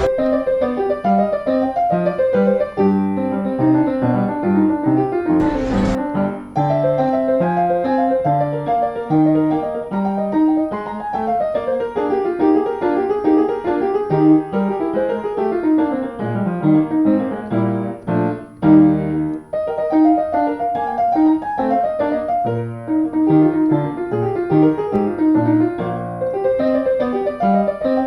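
Background piano music, an even run of notes.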